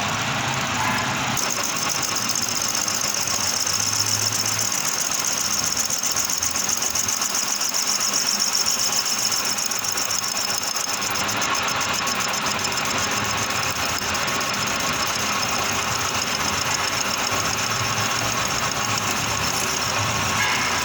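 Manual metal lathe running steadily. From about a second and a half in, a high-pitched, fluttering scraping whine joins it: the cutting tool working the edge of a stainless steel plate.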